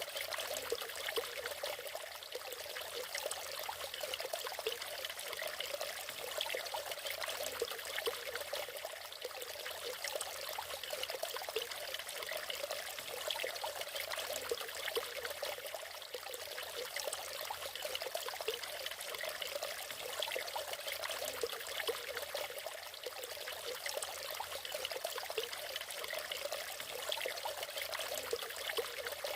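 Natural waterfall: water splashing and trickling steadily in a light, even rush with little low rumble.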